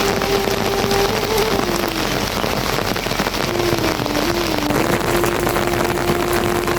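A steady, dense hiss of rain-like noise throughout. A single held tone sits beneath it, sliding down in pitch between one and two seconds in, wavering, then holding steady from about five seconds in.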